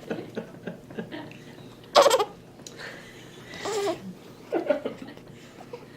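A baby's short squeals and babbling vocal noises, the loudest a sharp squeal about two seconds in, with a few softer ones later.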